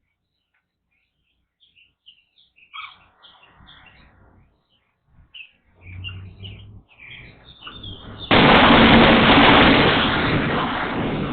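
Small songbirds chirping in short, scattered high notes. About eight seconds in, a sudden loud rushing noise starts, drowns the chirps and slowly fades.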